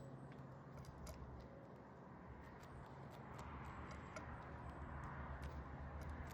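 Irregular light clicks and taps of small birds pecking and cracking seed at a bird feeder, faint, over a steady low hum.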